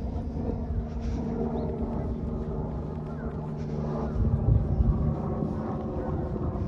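A steady low engine drone with a level hum, over outdoor ambience.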